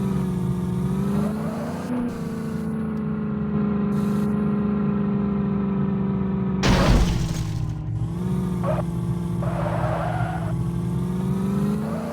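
Tractor engine running at a steady speed, its pitch shifting only slightly, with a sudden loud crash-like burst about seven seconds in.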